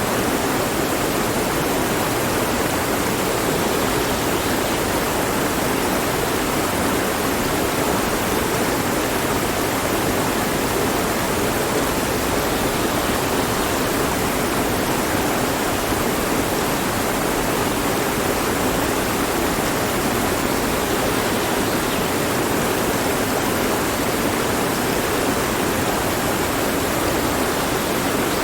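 Mountain stream flowing and splashing over rocks, a steady rushing of water.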